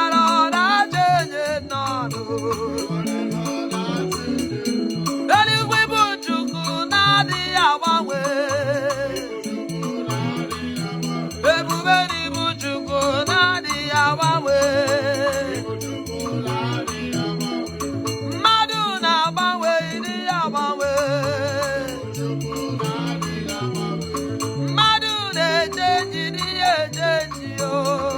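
Gospel worship music: a steady band groove with a shaker keeping the beat, and a wavering lead vocal line coming in phrases every few seconds.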